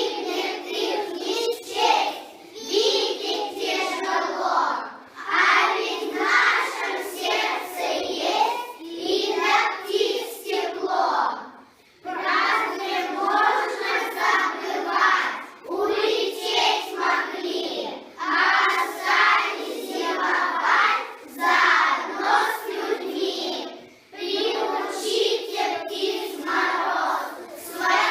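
A group of children singing together in short phrases, with brief pauses between the lines.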